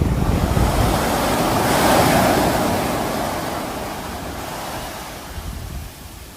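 Sea waves breaking: a wave rushes in, peaking about two seconds in, then washes out and fades away, with wind buffeting the microphone.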